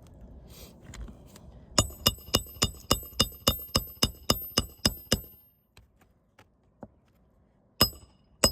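Hammer driving roofing nails into a shingle: a quick run of about a dozen sharp, ringing metallic strikes, about three a second, then a pause and two more strikes near the end.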